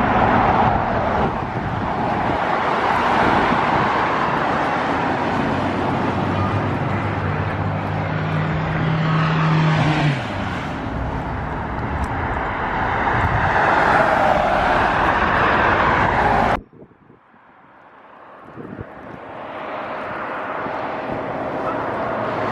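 A car on the move, with a steady rush of road and wind noise. A low hum runs under it for a few seconds near the middle. About two-thirds of the way through, the noise drops out suddenly, then builds back up gradually.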